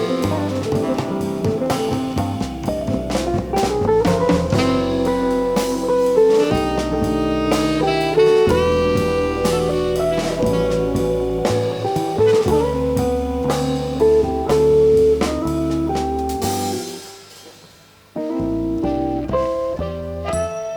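Live jazz band playing, a saxophone line over a drum kit. The music dies away briefly about three-quarters of the way in, then comes back suddenly.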